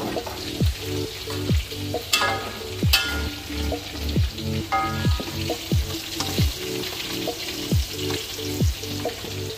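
Noodles and shredded vegetables frying and sizzling in oil in an aluminium wok, stirred and scraped with a metal spatula, with a couple of sharp metal clinks against the wok about two and three seconds in. Background music with a steady beat of about one thump a second plays throughout.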